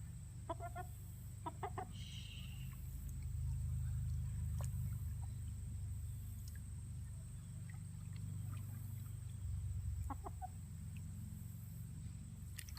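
Domestic hen clucking a few short times while being held and washed, over a steady low rumble.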